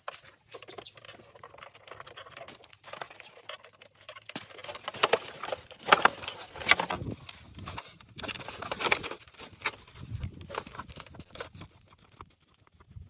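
Irregular clicks, taps and scraping, louder in clusters through the middle, from hands handling and working on the casing and parts of an old tape player.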